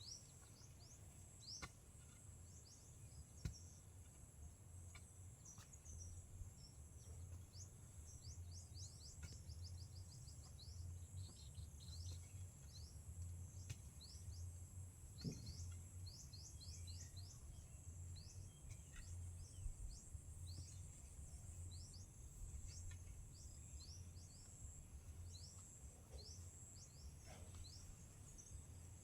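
Faint outdoor ambience: many short rising bird chirps, some in quick runs, over a steady high insect drone and a low hum. A few sharp clicks or knocks stand out, the loudest about 3.5 s in.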